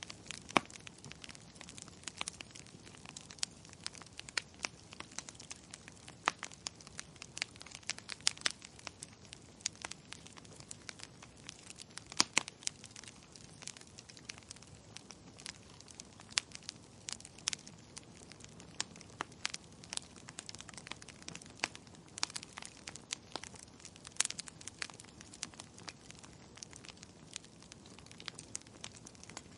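Fireplace fire crackling: irregular sharp pops and snaps over a soft hiss, with a few louder pops now and then.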